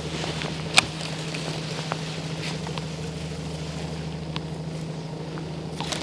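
Electric trolling motor humming steadily while it holds the kayak in place on spot lock, with one sharp click about a second in.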